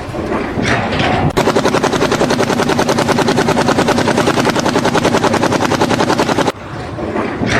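A fast, steady rattle of evenly spaced mechanical impacts, starting abruptly a little over a second in and cutting off abruptly near the end.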